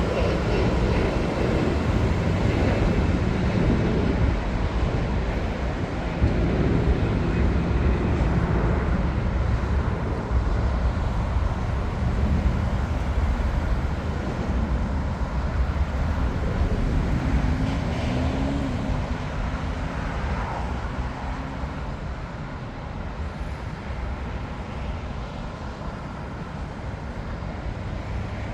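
Jet airliner engines rumbling at an airport, slowly fading over the whole stretch.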